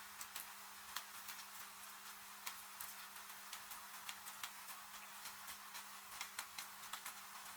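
Wood fire crackling with irregular sharp pops over a steady hiss of rain, with a faint steady low hum underneath.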